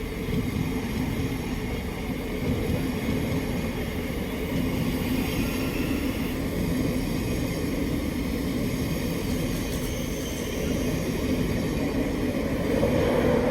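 A train moving, a steady rumble with a low hum, growing louder near the end.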